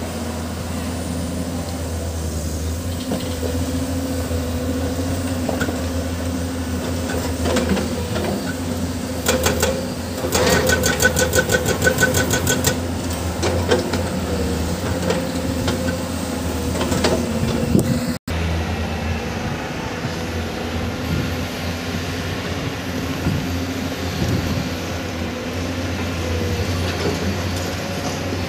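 Diesel engine of heavy construction machinery running steadily. From about 9 to 13 s in it is joined by rapid knocking, about eight strokes a second.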